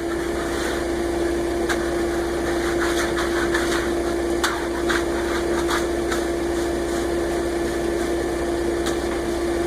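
A concrete mixer truck's engine running steadily with an even hum, with a few short clicks and scrapes in the first part.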